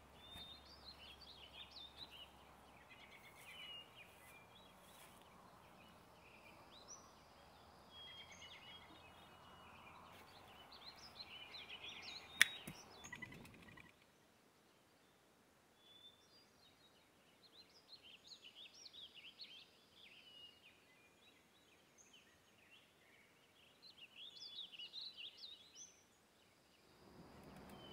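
Faint birdsong, short chirps scattered throughout, over a soft outdoor hiss, with a single sharp click about twelve seconds in.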